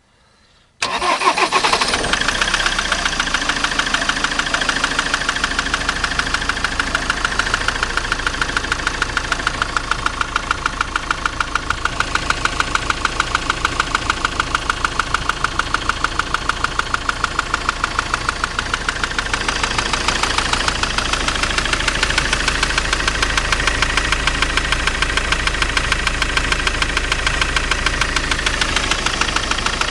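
2007 Ford Transit's 2.4 TDCi diesel engine cranking and starting about a second in, then idling with a steady, regular knock. The owner cannot locate the knock and wonders whether it comes from the EGR valve or the gearbox.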